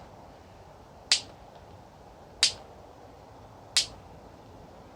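Sharp, dry percussive clicks in a slow, even beat, one about every 1.3 seconds, each with a short ringing tail.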